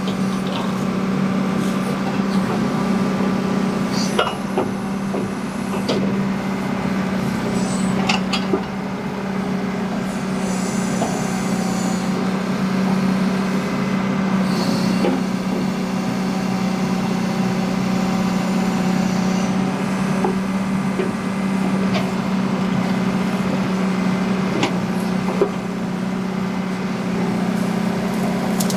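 John Deere 310G backhoe's diesel engine running at a steady speed while the backhoe works, with scattered sharp knocks and clanks.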